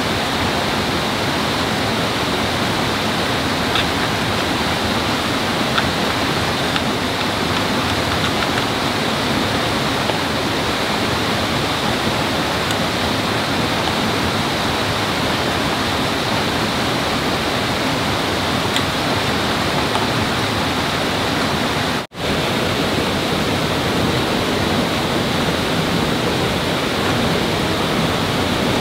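Steady rush of flowing water, like a stream or small waterfall, unbroken except for a momentary dropout about two-thirds of the way through.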